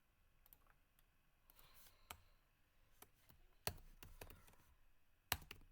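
Faint, scattered clicks of a computer mouse and keyboard as a tier-list row is added and labelled. The two sharpest clicks come about three and a half and five seconds in.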